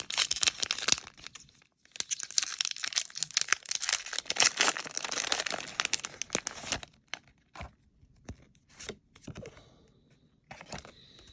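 Foil Pokémon TCG booster pack wrapper being torn open and crinkled, in two long stretches of tearing and rustling. A few light taps and rustles follow over the last few seconds.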